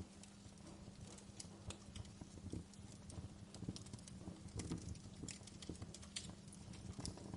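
Wood fire crackling in a fireplace: irregular sharp pops and snaps over a low steady rumble of the burning fire.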